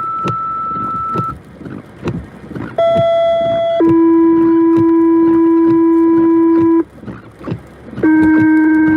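Fire/EMS dispatch two-tone paging tones over a scanner radio: a steady high tone ends about a second in, then a short one-second tone steps down to a lower tone held about three seconds. Near the end a second pair of tones begins, alerting units before a dispatch call.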